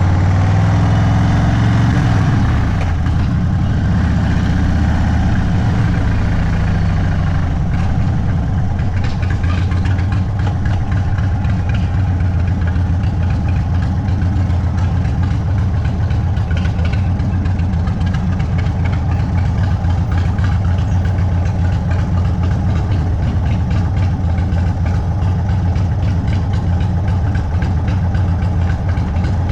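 Indian Sport Chief's Thunderstroke 116 V-twin through a Sawicki Speed aftermarket exhaust, its note falling as the bike slows in the first few seconds, then idling steadily.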